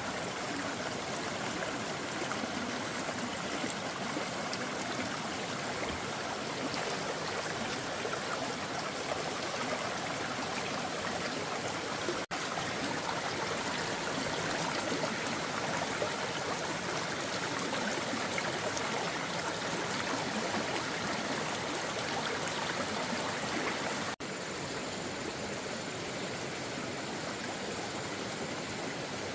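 Steady rush of running water, breaking off for an instant twice.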